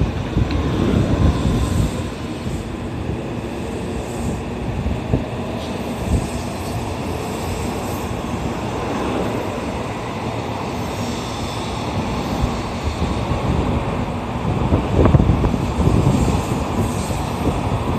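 N700A series Shinkansen pulling out of a station, its cars rolling past at low speed: a steady rumble of steel wheels on rail, with a few faint steady tones in it.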